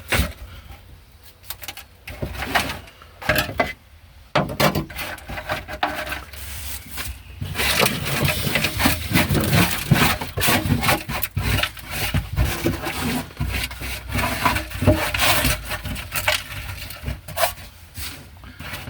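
Hand scraper scraping sound deadening off the Ford Escort XR3i's steel floor pan in irregular strokes, sparse at first and busier from about seven seconds in.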